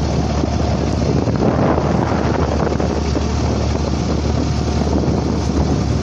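A boat's engine running steadily as the boat crosses the water, with wind buffeting the microphone.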